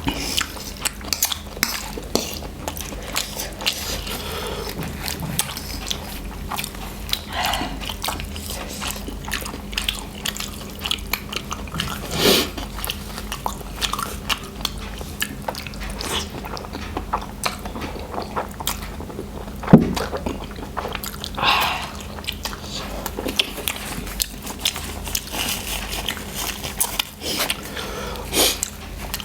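Close-up sounds of spicy noodles being eaten: irregular chewing and mouth clicks, with a few louder slurps spread through.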